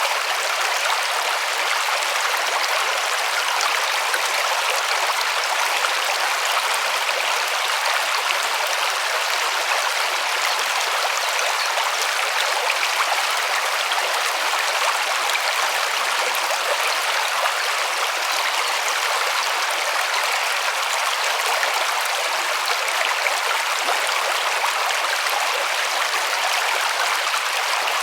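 A river running over rocks, a steady rushing and splashing with no change in level.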